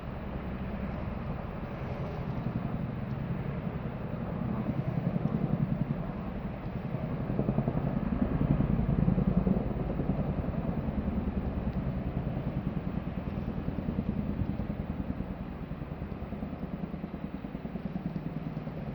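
Boeing CH-47 Chinook tandem-rotor military helicopter flying low, its rotor blades beating in a rapid, steady pulse. The sound swells louder twice and eases off near the end.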